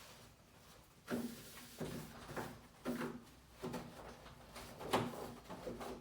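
Refrigerator parts being handled: a string of short bumps, knocks and scrapes of plastic shelves and drawers, starting about a second in.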